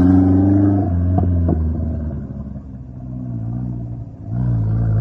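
A vehicle engine running under throttle. It eases off about a second in, with two short sharp knocks, idles quieter for a few seconds, then is throttled up again near the end.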